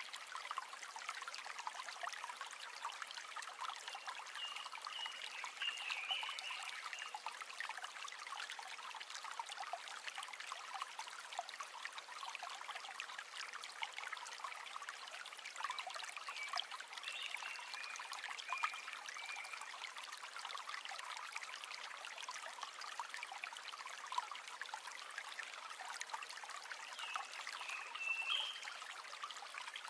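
River water flowing steadily, with a dense, fine texture of small splashes and trickles.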